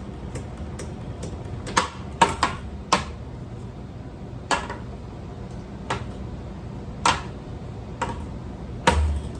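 Ceiling fan parts being handled and worked on: irregular sharp clicks and knocks, a quick cluster about two seconds in and a louder knock near the end, over a faint ticking about twice a second.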